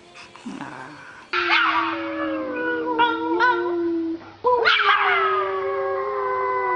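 Dog howling: two long, drawn-out howls, the second rising sharply at its start and then sinking slowly in pitch.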